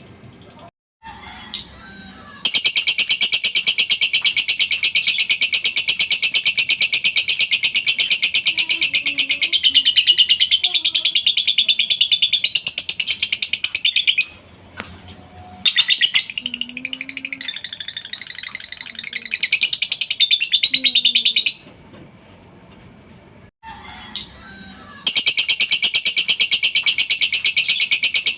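Lovebird ngekek: long bouts of very rapid, high-pitched chattering trill, broken by two short pauses.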